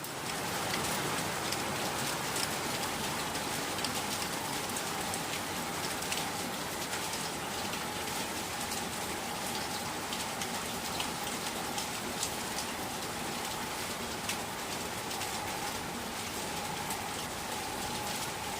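Steady rain falling, with many individual drops ticking on surfaces, and a faint steady tone underneath.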